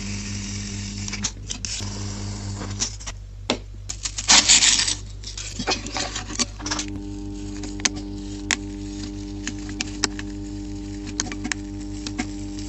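A machine's motor hums steadily, its pitch stepping up about seven seconds in, with scattered sharp clicks and taps throughout and a brief loud rasping burst about four and a half seconds in.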